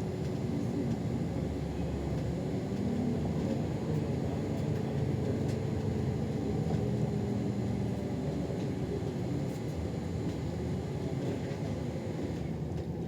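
City bus driving, heard from inside: a steady low rumble of engine and road noise, with the engine's hum easing slightly about two-thirds of the way through.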